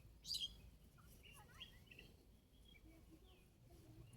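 Near silence with faint scattered bird chirps, and a brief hissy burst of noise shortly after the start.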